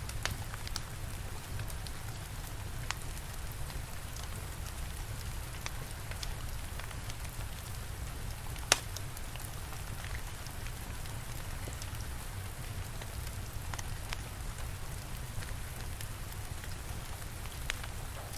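Steady rainfall with a low rumble beneath it, overlaid by the sparse, sharp crackles and pops of a wood fire, one pop louder than the rest about halfway through.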